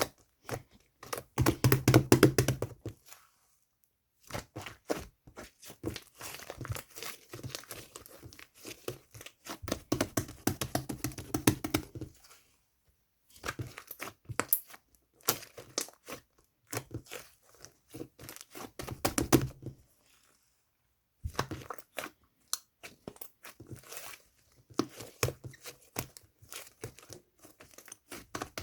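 Hands squishing and stretching slime: dense runs of sticky clicks and crackles in several bursts, with short pauses between them.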